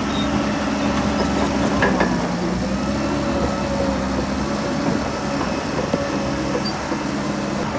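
Heavy diesel engine of earthmoving machinery running steadily, with a couple of short metallic knocks about two seconds in and again near six seconds.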